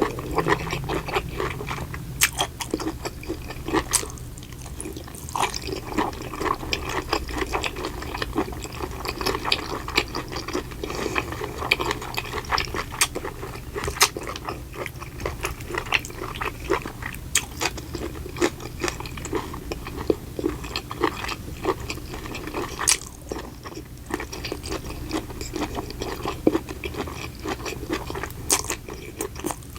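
Close-miked chewing and biting, with dense, irregular crunching clicks throughout.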